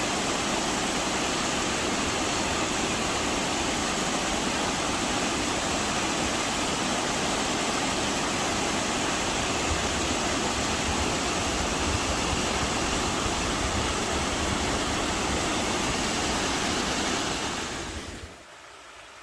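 Valley stream water rushing, a steady, even rush that fades down sharply near the end.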